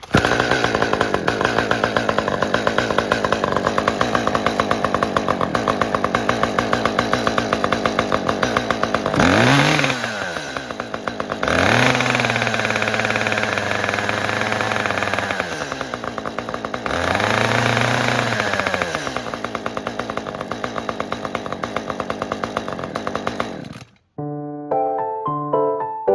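Ryobi ESK-3635 two-stroke chainsaw idling with a rapid, even beat, revved up three times about nine, twelve and seventeen seconds in, each rev rising in pitch and settling back to idle. It cuts off suddenly near the end.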